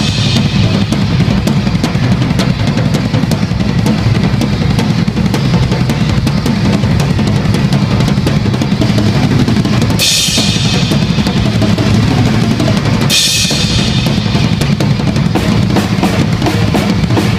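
Heavy metal drum kit in a solo: fast, continuous double bass drum pounding under snare and tom strikes, with two cymbal crashes, about ten and thirteen seconds in.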